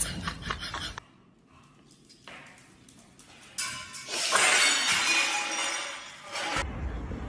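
A loud, noisy crash and clatter of something breaking, about three seconds long, starting a few seconds in after a near-quiet gap.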